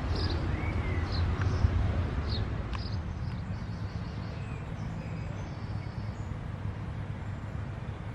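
Small birds chirping several times in the first few seconds over a steady low rumble of outdoor background noise.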